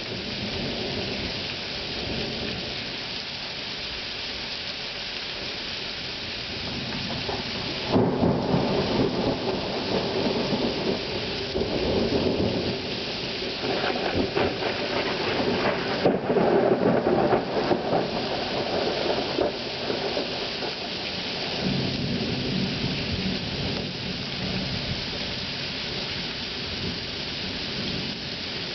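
Thunderstorm: steady heavy rain throughout, with thunder breaking sharply about eight seconds in and rumbling on for about twelve seconds, loudest near the middle, before fading back under the rain.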